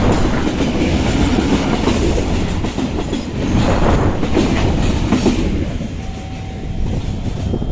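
Loaded coal train wagons rolling past, with a steady heavy rumble and wheels clacking over the rail joints at irregular intervals. A thin steady squeal appears near the end.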